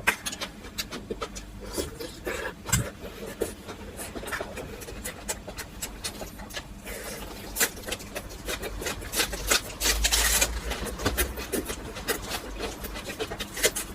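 Close-miked eating sounds: a person chewing with many short sharp clicks and crackles, and a longer rush of noise about ten seconds in.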